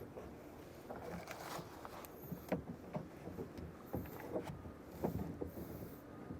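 Kayak on the water: low lapping and irregular light knocks and splashy clatters against the hull, the sharpest about two and a half, four and five seconds in.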